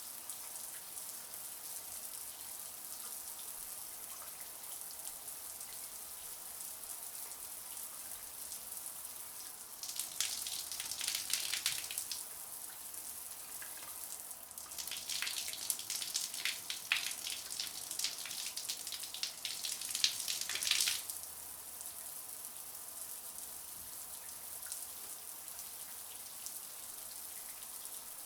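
Shower water running in a steady high hiss, with two spells of louder, closer spattering: one about ten seconds in lasting a couple of seconds, and a longer one from about fifteen to twenty-one seconds.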